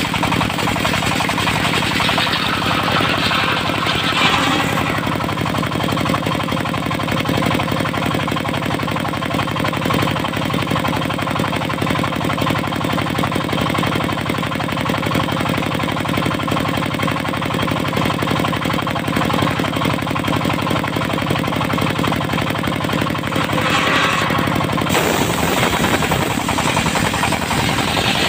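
Diesel engine of a mobile circular sawmill running steadily with a fast knocking beat as it drives the blade through teak. A brighter hiss swells a few seconds in and again near the end.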